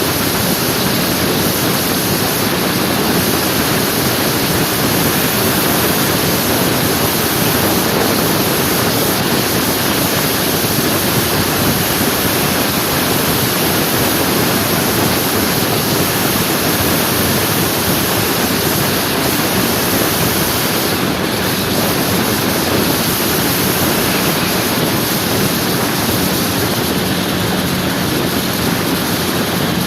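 Steady rush of wind over the microphone while riding a scooter, with a faint engine hum underneath.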